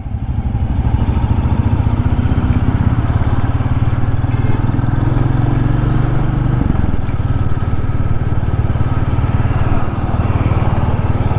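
Royal Enfield Classic 350's single-cylinder engine running steadily as the motorcycle is ridden, with a fine pulsing exhaust beat; the engine note drops about two-thirds of the way through.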